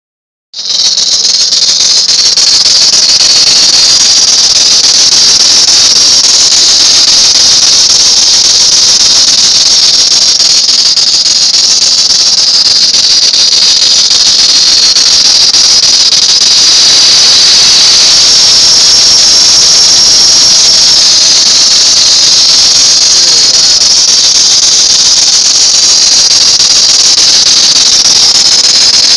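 Loud, steady, high-pitched squeal from the accessory belt drive of a 1999 Chrysler Town & Country van's running engine. It persists after the belt, water pump, alternator, idler and tensioner pulleys were replaced; the owner suspects only the crankshaft drive pulley or the power steering pump remain.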